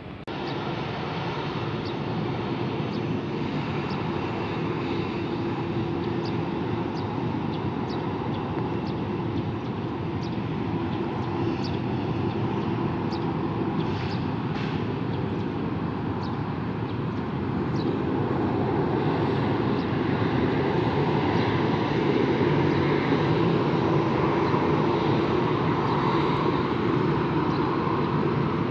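Jet airliner engines running, a steady rush with a held hum, growing louder about two-thirds of the way through.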